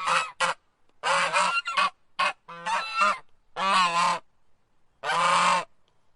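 Goose honking: a series of repeated honks, a few short ones at first, then longer ones roughly a second apart.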